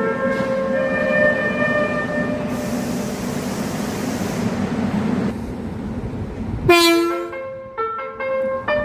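Korean subway train horn sounding over the steady running rumble of the train: a chord of several held tones in the first two seconds, then a louder horn blast about seven seconds in, followed by a few short toots near the end.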